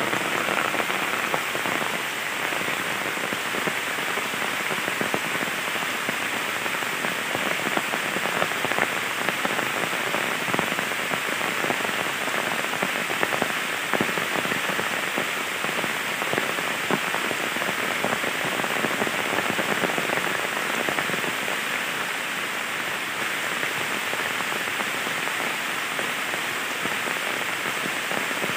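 Heavy rain falling steadily onto the water of a flooded pond and the bank around it: a dense, even wash of drops with no let-up.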